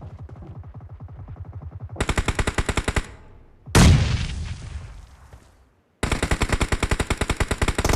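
Video-game automatic gunfire in rapid, evenly spaced shots, faint at first, then loud in a burst that stops about three seconds in. A single loud explosion follows and rings out for about two seconds, then loud rapid fire starts again near the end.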